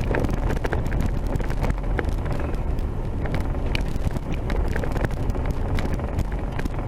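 A vehicle driving on a rough dirt road: a steady low rumble with frequent short clicks and knocks throughout.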